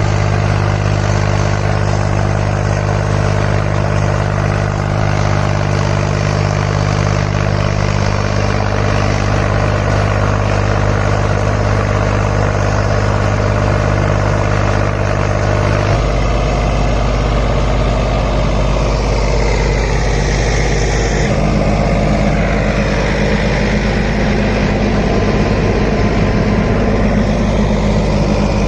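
Mahindra Yuvo Tech Plus 405 tractor's 39 HP diesel engine running steadily. Its note changes about halfway through and again a few seconds later.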